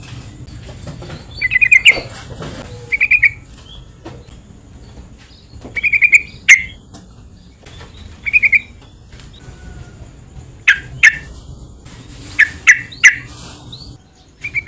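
Sooty-headed bulbul (trucukan) calling: short bubbly phrases of quick notes, repeated every one to three seconds, mixed with sharp single chirps.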